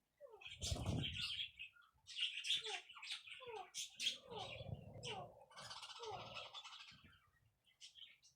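Pet parrots chirping and squawking in many short calls, mixed with brief downward-sliding whistled notes; the calling thins out near the end.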